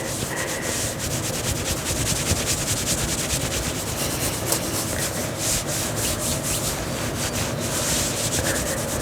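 Fingers scratching and rubbing fabric of a turtleneck close to the microphone: a continuous run of rapid scratchy strokes.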